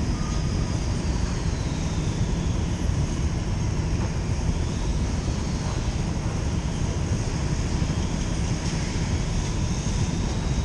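Motorcycle running on the move with heavy wind rumble, a steady noise that stays level throughout.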